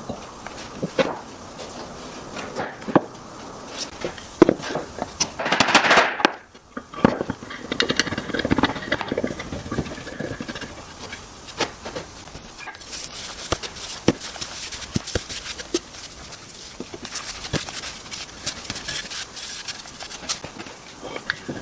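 Irregular knocks, taps and scrapes of wooden pieces being handled at a workbench, with a short louder rushing sound about six seconds in.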